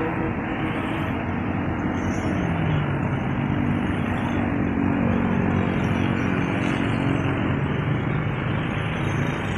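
Road traffic passing close by: a vehicle engine rises in pitch about two seconds in and holds steady for several seconds, over a constant hum of traffic.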